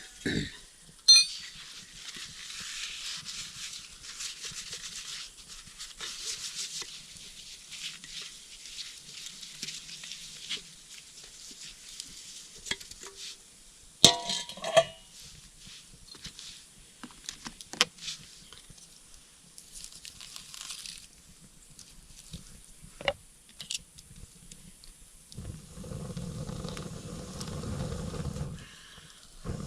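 Small wood campfire crackling and hissing, with a few sharp pops spaced several seconds apart. A low rumble comes in near the end.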